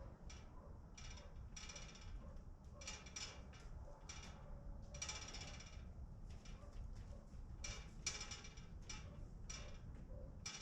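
Chickens giving short, repeated calls in irregular clusters, over a steady low rumble.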